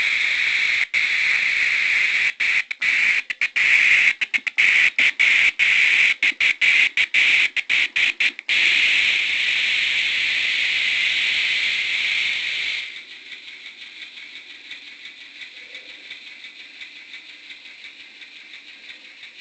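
Model locomotive sound decoder playing a loud, high hiss through its small onboard speaker. The hiss cuts out completely again and again for a few seconds, runs steady, then drops to a faint sound about two-thirds of the way through. The stuttering cut-outs are the misbehaviour the owner traced to a faulty speaker.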